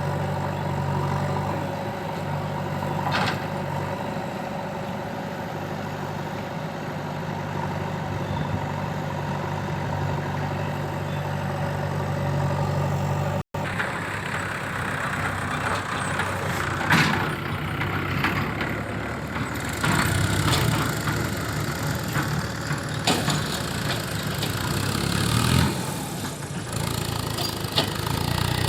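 Diesel engine of heavy earthmoving machinery running steadily. After an abrupt cut about halfway, it runs on with several knocks and clanks.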